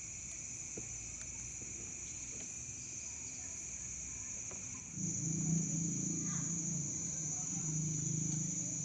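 Crickets or other night insects chirring steadily in two high-pitched layers. About five seconds in, it gets louder and a low pulsing sound joins in.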